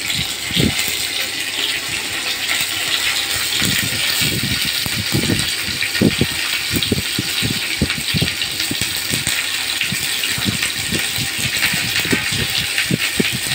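Stuffed bitter gourds (karela) frying in hot oil in a non-stick pan: a steady sizzling hiss with frequent irregular crackles and pops.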